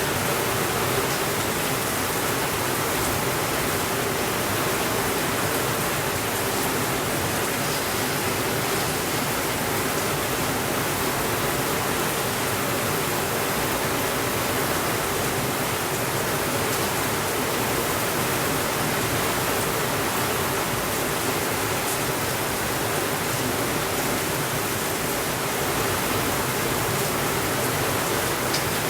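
Steady, unbroken rainfall: a dense, even hiss with no thunder, and a few faint ticks here and there.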